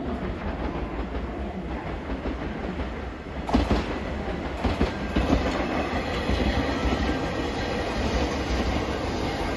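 E001-series TRAIN SUITE Shiki-shima passing through a station, its wheels clattering over the rail joints. It gets louder about three and a half seconds in, as the front car comes level.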